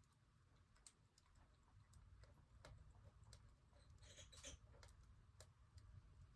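Wood fire burning in a wood stove, crackling faintly with scattered sharp pops and a brief burst of denser crackles about four seconds in.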